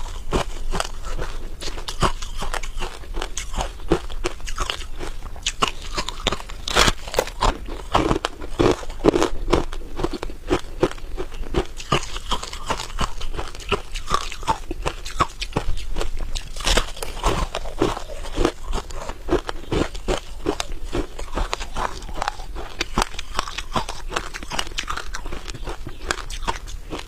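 Close-up crunching and chewing of freezer frost: soft, powdery ice packed between the teeth, crackling and squeaking in dense, irregular bites.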